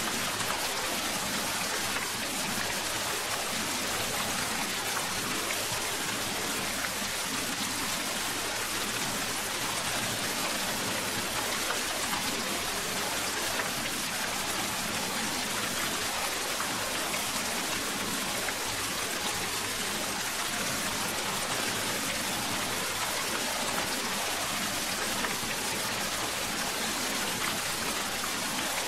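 Steady rain falling: an even hiss of drops with no breaks.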